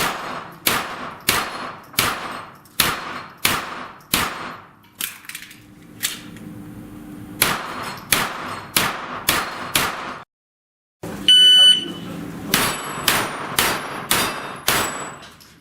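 Pistol-calibre gunshots fired in quick succession, about one every two-thirds of a second, with the steel plates ringing on hits and a short pause midway. Just after an abrupt cut to silence, a shot timer gives a high start beep and a new string of rapid shots begins.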